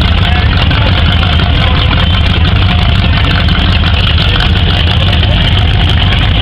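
Rat rod's engine idling, loud, steady and low-pitched, as the car creeps along in gear during a slow drag race.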